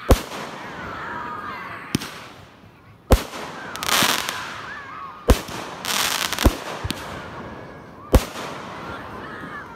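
Consumer aerial fireworks bursting overhead: about six sharp booms spaced one to two seconds apart, with stretches of hissing crackle after some of them.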